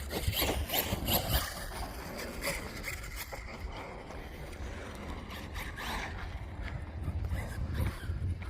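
RC stunt truck running over dirt, its tyres scrabbling and scraping in a string of short rasps, busiest in the first second and a half. A steady low wind rumble on the microphone lies under it.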